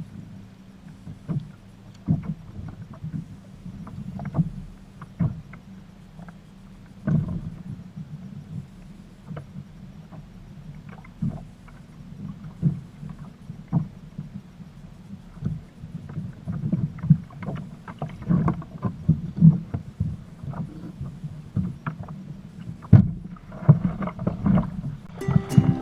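Fishing kayak on rough water: irregular low thumps and knocks on the hull with water sloshing, a few knocks a second.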